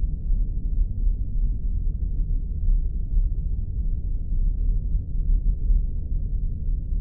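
Spaceship engine sound effect: a steady, deep rumbling drone, its sound all low down with nothing high above it.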